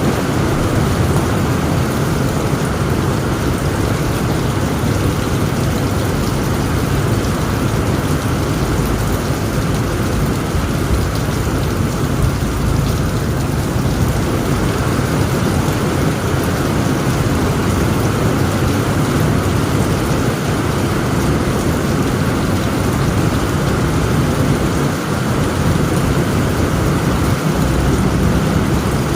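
Heavy rain pouring steadily on a tent roof, with a continuous low rumble of thunder underneath.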